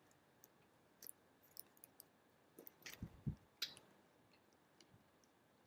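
Near silence, broken by scattered faint clicks and a pair of low thumps about three seconds in, followed by a sharper click.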